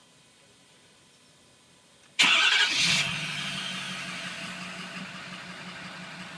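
Ford F-250's 6.7 L Power Stroke turbodiesel V8 starting: after about two seconds of near silence it cranks and catches at once with a loud burst, then settles into a steady idle that slowly quiets.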